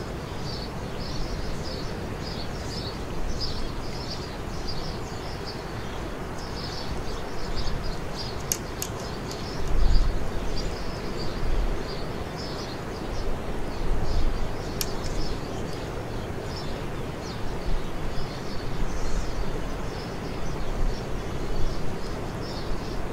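Small birds chirping again and again over a steady background hiss, with a few low thumps, the strongest about ten seconds in.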